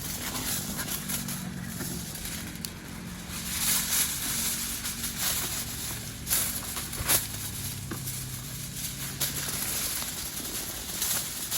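Wood campfire crackling, with sharp pops scattered irregularly through it, over a faint steady low hum.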